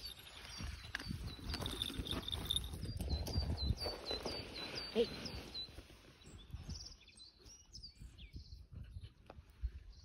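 A small songbird calling a rapid run of short, high chirps, about three a second, over a low rustling rumble that dies away about six seconds in; a few scattered chirps follow.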